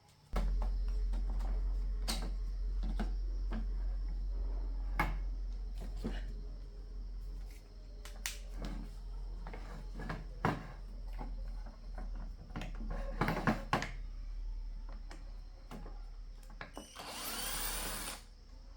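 An electric motor switching on and running with a steady low hum that slowly weakens over the second half, amid scattered clicks and knocks of tools; a loud hissing, grinding burst lasts about a second near the end.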